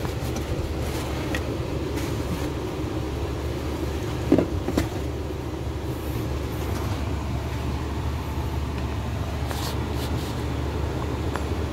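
Holden Commodore 3.6-litre V6 engine idling steadily, heard from inside the cabin as a low hum. Two sharp knocks come about four and a half seconds in.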